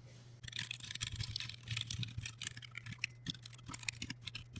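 Typing on a computer keyboard: a quick, uneven run of key clicks that starts about half a second in and thins out near the end.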